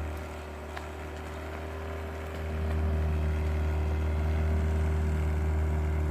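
Outboard motor running steadily, driving a sailing yacht under power; its low drone drops in level for about two seconds, then comes back up.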